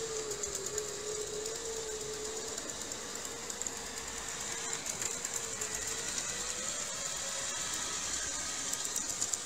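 ILIFE W90 cordless wet-dry floor cleaner running: a steady motor whine whose pitch wavers slightly, over a high hiss with rapid faint ticking.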